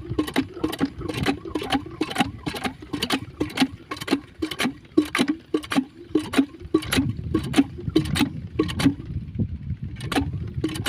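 Diesel engine driving a water pump, running slowly with a steady chugging beat of about two knocks a second over a low rumble.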